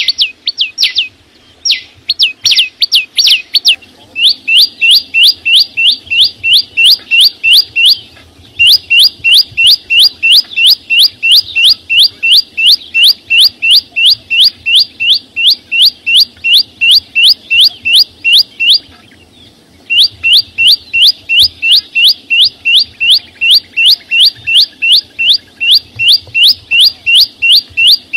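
A small songbird, the chim sâu xanh, singing a loud, rapid string of identical high, sharp notes, about three a second. The runs break off briefly about four, eight and nineteen seconds in, then start again.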